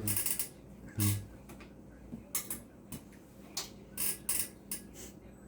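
About ten short, irregular clicks and taps from handling the ultrasound scanner's controls and probe, over a faint steady electrical hum.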